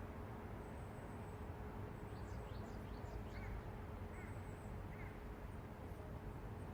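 Low, steady city rumble with small birds chirping faintly over it: a run of quick downward-sweeping chirps about two seconds in, then three short looping calls about a second apart.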